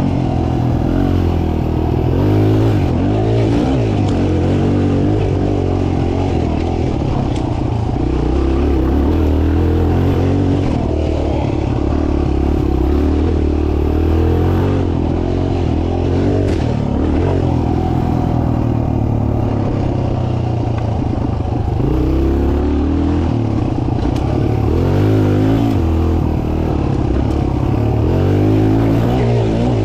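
Mini dirt bike engine running hard, its revs rising and falling again and again as it is ridden around a track.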